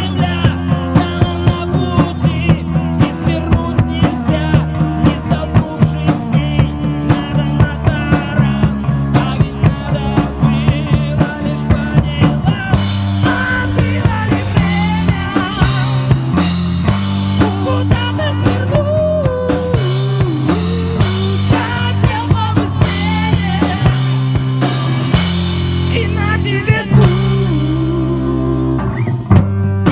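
Live rock band playing an instrumental passage, the drum kit keeping a steady beat under bass and a lead line that bends in pitch. The cymbals come in much louder about halfway through.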